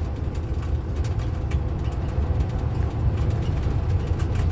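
Steady low rumble of engine and road noise heard inside a tow truck's cab while it drives at highway speed.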